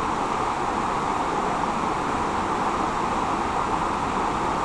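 Steady rushing of a mountain river's rapids, an even hiss of water over rocks.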